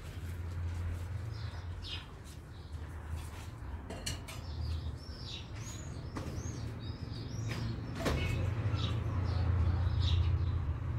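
Small birds chirping in short repeated calls, busiest through the middle, over a steady low rumble that grows louder near the end, with a few sharp clicks.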